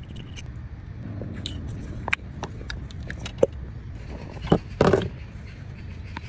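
A car engine running steadily at a low rumble, with several sharp metallic clicks and knocks on top, the loudest a short clatter near the end.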